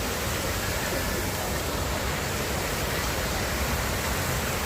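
Steady rushing noise of water falling or flowing into an elephant pool, even and unbroken throughout.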